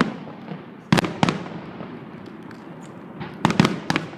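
Aerial fireworks shells bursting in sharp bangs: one at the start, two about a second in, and a quick run of three or four about three and a half seconds in.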